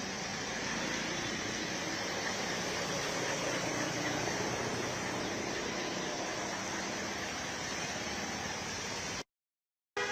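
Steady rushing noise of road traffic and water on a flooded street, which cuts out completely for about half a second near the end.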